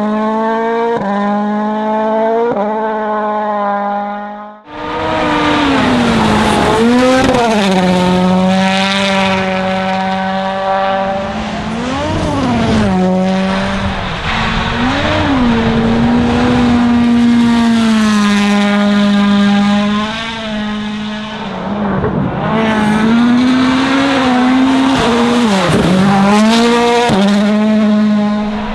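Toyota Yaris WRC rally car's 1.6-litre turbocharged four-cylinder engine at full throttle on a test stage. Its pitch climbs in quick steps through the gear changes, breaks off suddenly about four seconds in, then comes back loud, rising and falling as the driver shifts and lifts. A rushing tyre noise runs underneath.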